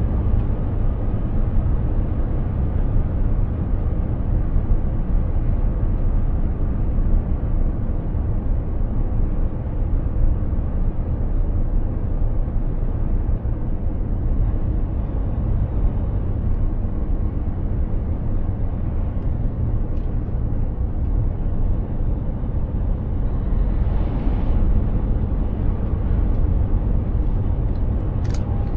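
Mercedes-Benz Actros 2763 truck driving along at a steady pace: an even drone of diesel engine and road noise, heavy in the low end, with no gear changes or braking heard.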